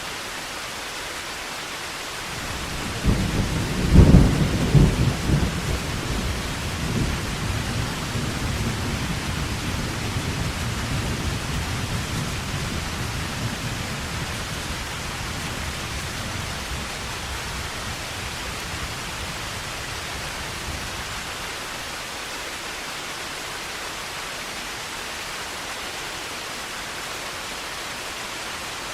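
Heavy rain falling steadily, with a loud peal of thunder about three seconds in that cracks and then rumbles away slowly over the next fifteen seconds or so.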